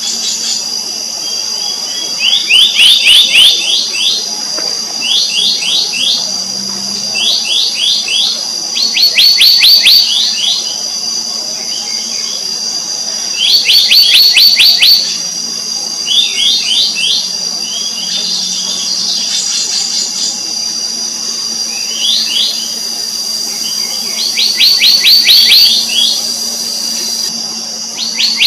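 Black-naped monarch calling: quick runs of sharp, high repeated notes, each run about a second long, coming back about every two to four seconds.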